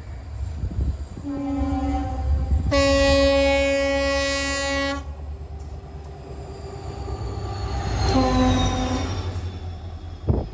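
Express train locomotive's multi-tone air horn: a long blast of a few seconds, then a shorter second blast about three seconds later. Both sound over the steady low rumble of the approaching through train. A sharp knock comes right at the end.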